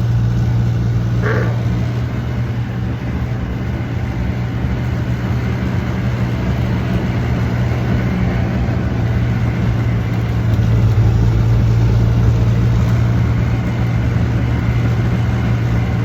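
A motor vehicle driving along, its engine hum and road noise steady, swelling slightly about two-thirds of the way through.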